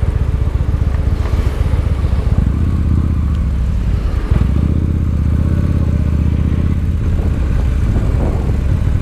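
Victory Highball's V-twin engine running warm under way. It pulls harder from about two seconds in, eases briefly just past four seconds, pulls strongly again until about seven seconds, then eases off.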